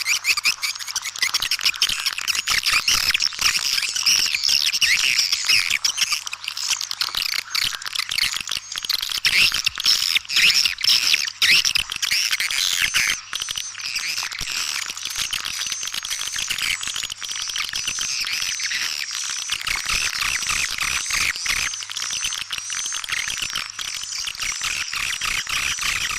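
Swiftlets calling: a dense, unbroken twittering of quick, high chirps from several birds. This is a swiftlet lure call of the kind played to draw swiftlets to a nesting house. In the second half it settles into a more even run of short, repeated chirps.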